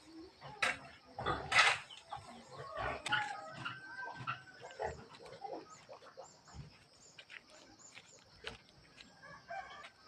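Farm animals calling: two loud, harsh cries in the first two seconds, then scattered fainter calls and clicks.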